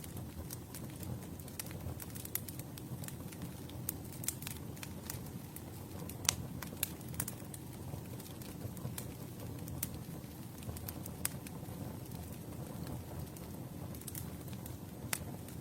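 Campfire crackling: a steady low rush of flames with frequent sharp pops and snaps, the loudest about six seconds in.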